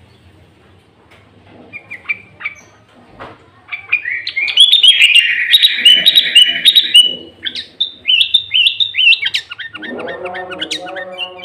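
Sooty-headed bulbul (kutilang) singing: scattered chirps, then a fast, loud run of chirping notes, its song mixed with leafbird-like phrases. About ten seconds in, a lower, pitched sound with several tones begins under the last notes.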